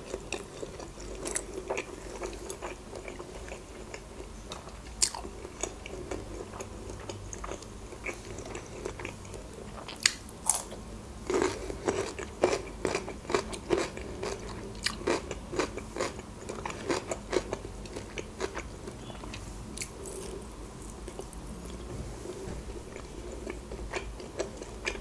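Close-miked chewing of boiled sausage, with many short wet clicks and smacks of the mouth, thickest in the middle stretch.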